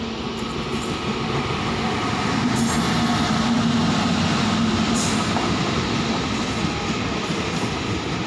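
Express passenger train passing on the rails, growing louder over the first few seconds as the locomotive goes by with a low hum, then a steady rumble of coaches rolling past with a few clicks from the wheels.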